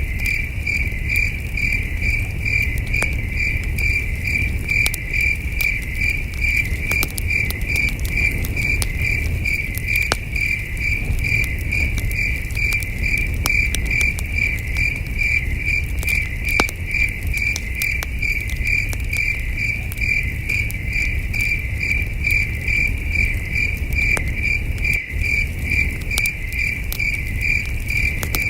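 Crickets chirping in an even, steady pulse, with the scattered sharp crackles of a campfire and a low rumble underneath.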